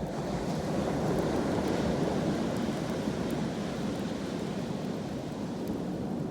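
A sea wave breaking and washing up the shore, swelling over the first second or two and then slowly ebbing away, with a few faint crackles from a campfire.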